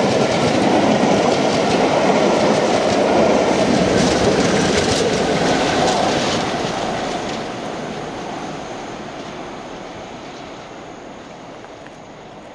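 Loco-hauled charter train of passenger coaches passing close by, wheels clattering over the rail joints. After the tail diesel locomotive goes by about six seconds in, the train's sound steadily fades away.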